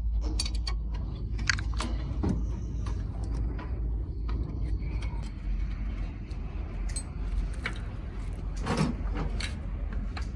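Scattered metallic clicks and clinks of tools and engine parts being handled, with a louder clatter near the end, over a steady low hum.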